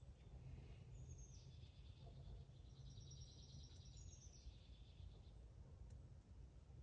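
Faint songbird song, a high trill that starts with a falling note about a second in and runs until about five seconds in, over a low, steady background rumble.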